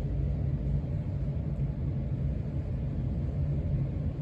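Casablanca Stealth ceiling fan running steadily on its lowest speed, a continuous low rumble.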